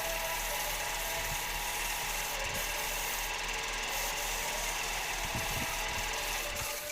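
A woodworking machine running steadily with a dense mechanical rattle, dropping away at the very end.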